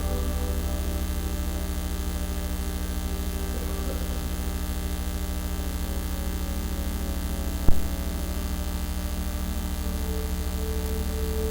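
Steady electrical mains hum with a stack of overtones, the fault that leaves this recording with bad sound. A single sharp click or pop about three-quarters of the way through.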